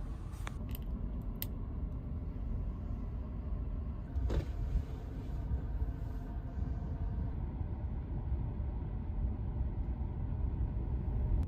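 Steady low rumble of a sleeper train running, heard from inside the carriage, with a few light clicks in the first seconds.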